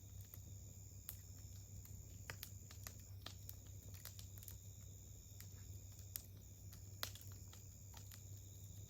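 Campfire wood crackling faintly: irregular small pops and clicks, with two sharper pops about six and seven seconds in.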